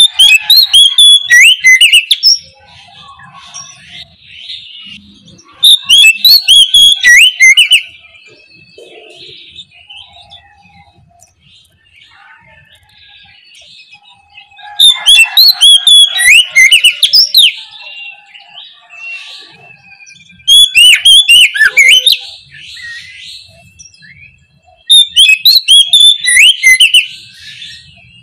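Oriental magpie-robin singing loud, open song: five phrases of rapid, varied whistles and warbles, each about two seconds long, separated by pauses with fainter chirping.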